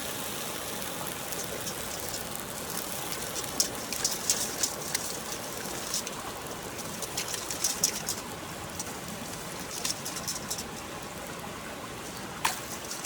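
Wood campfire burning, with a steady hiss and irregular sharp crackles and pops.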